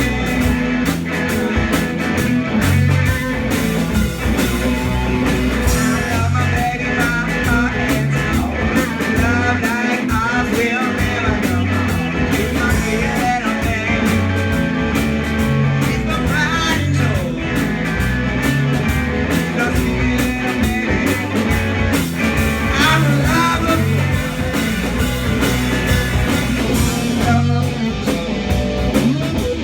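A rock band playing live, with electric guitar, bass, drums and singing.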